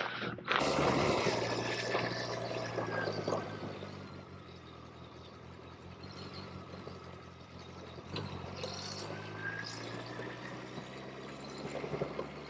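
Motorcycle engine running steadily with a low hum, louder for the first couple of seconds and then settling quieter.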